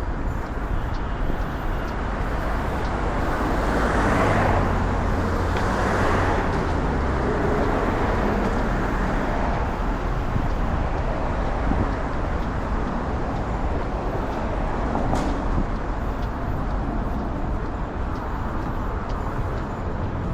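Street traffic: a steady rush of road vehicles going by, with a louder vehicle passing about four to six seconds in.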